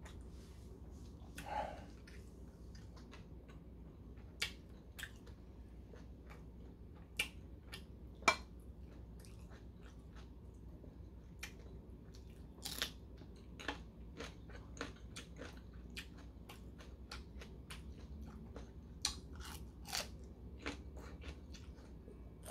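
A man chewing food close to the microphone, with scattered sharp crunches and wet mouth clicks. One of the loudest crunches comes just past halfway, as he bites into a raw green chili pepper.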